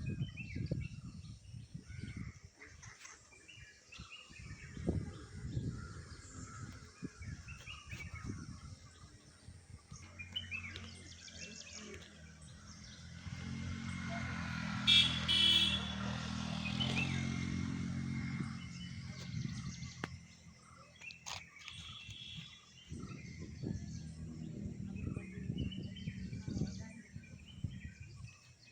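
Small birds chirping and tweeting on and off. About halfway through, a louder low hum swells for several seconds and then fades away.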